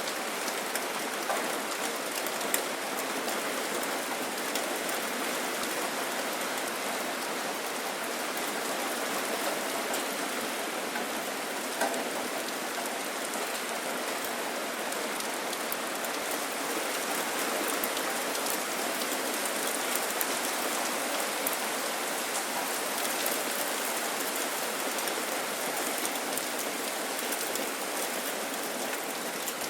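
Steady rain falling on a surface, a dense even hiss with scattered individual drop ticks, a few a little louder than the rest.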